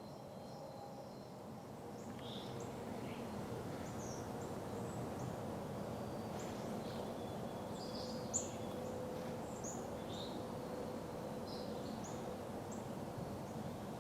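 Scattered short, high chirps from small birds, several a second at times, over a steady background hiss of the woods, with one sharp click about eight seconds in.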